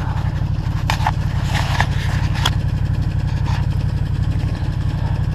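An engine idling with a steady, evenly pulsing low rumble, with a few light clicks over it about one and two seconds in.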